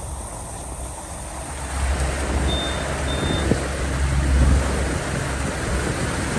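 Boat engine running steadily at trolling speed under a rush of wind and water that swells after a couple of seconds. Two short, high electronic beeps sound close together near the middle.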